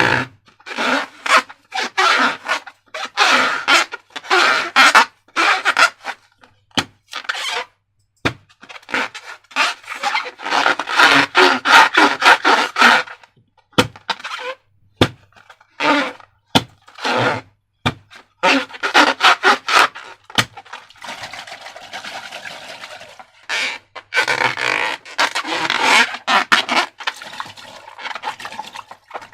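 Hands working slime and rubber balloons: irregular bursts of sticky handling and rubbing, with a few sharp clicks.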